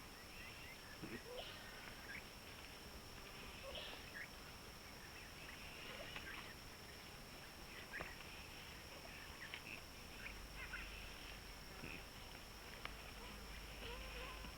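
Faint, scattered short bird calls, brief chirps and clucks every second or so, over a steady high whine.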